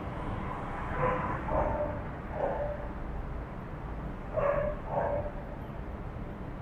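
Dog barking in two short runs: three barks in the first half and two more about four and a half seconds in, over a steady low rumble.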